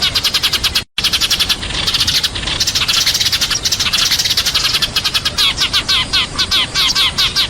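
Sparrows chirping rapidly and continuously, several chirps a second and at times many overlapping: a sparrow flock-calling lure recording. There is a very brief silent break about a second in.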